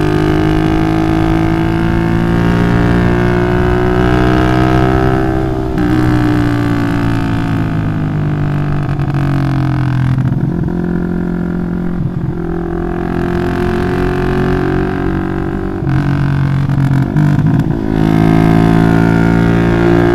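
Bored-up 180cc Yamaha Jupiter MX single-cylinder four-stroke running loud through an aftermarket Requsan Special exhaust. The engine note climbs in pitch and drops back several times, around six, ten and sixteen seconds in, as the bike is ridden and revved.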